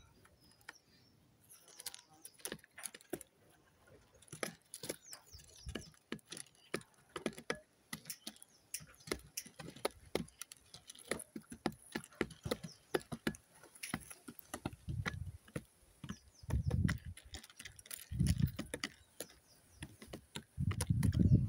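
Pigeons pecking at scattered food on hard ground: many quick, irregular taps, with a few low rumbles in the second half.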